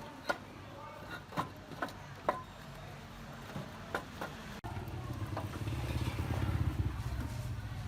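Several scattered clicks and knocks, then after an abrupt cut a steady, low, pulsing mechanical running sound, like a motor or engine running.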